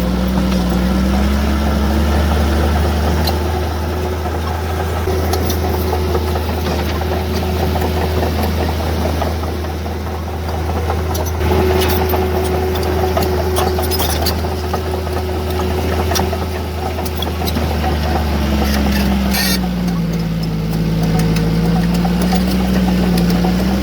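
Heavy earthmoving machinery's diesel engine running under load with a steady low drone, its pitch sagging and recovering early on and again near the end, with a few short metallic clanks.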